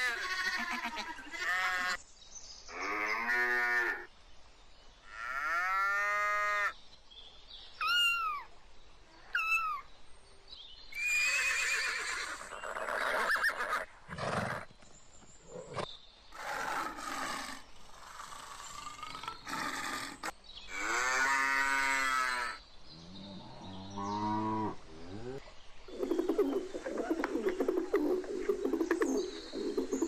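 A string of separate animal calls with short gaps: long rising-and-falling bleats and moos of sheep and cattle, a low call from a lion about halfway, and pigeons cooing near the end.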